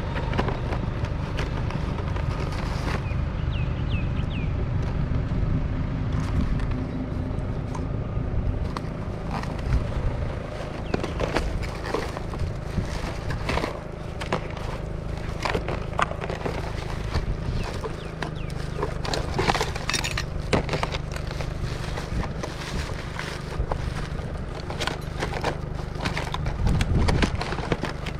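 Junk being handled and sorted, with plastic items clattering in many irregular short clicks and knocks, over the steady low hum of an idling vehicle engine.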